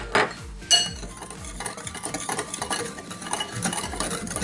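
A spoon clinks against a big glass bowl a few times in the first second, with a short ringing tone. Then comes a quick run of scraping and tapping as dry cake batter ingredients (flour, sugar, cocoa powder) are stirred in the bowl.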